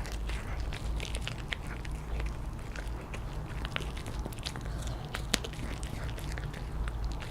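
A dog biting and crunching on a chew, irregular crisp crunches and clicks with one sharper crack about five seconds in, over a steady low hum.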